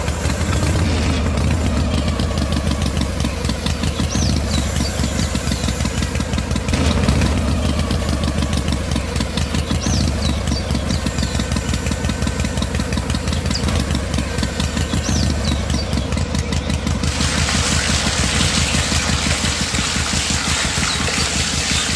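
A small engine running steadily with a fast, even chugging pulse. A hissing noise joins it about seventeen seconds in, and a few faint bird chirps sound over it.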